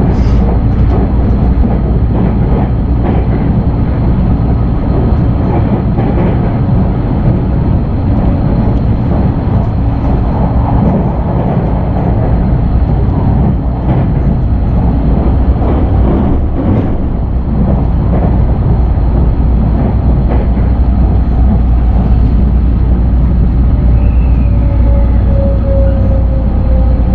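683-series electric train running, heard inside the passenger car: a steady low rumble of wheels on rail with a few brief clicks. Near the end a thin whine from the VVVF inverter and traction motors falls slowly in pitch as the train slows for its station stop.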